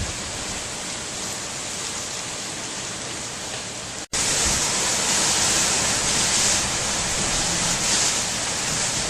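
Gusting wind and rain from Hurricane Earl's outer bands, a steady rushing noise. It cuts out for an instant about four seconds in and comes back louder and hissier.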